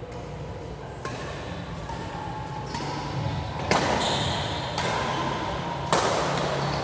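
Badminton rally: a racket strikes the shuttlecock five times, about a second apart, each hit ringing in a large hall's echo.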